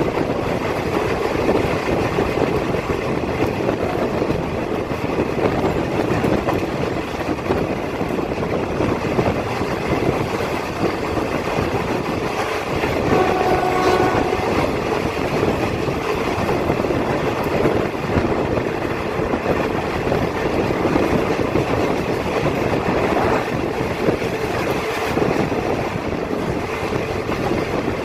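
Train running along the track with a steady rumble and clatter, and a single horn blast of about a second near the middle.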